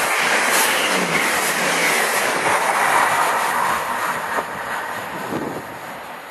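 Passenger train running past close by on the station line, its rushing rail and wheel noise fading steadily as it draws away.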